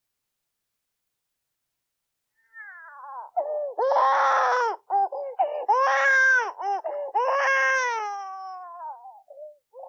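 A cat meowing: after a silent start, faint calls begin about two and a half seconds in, then three long, loud meows, the last one sliding down in pitch.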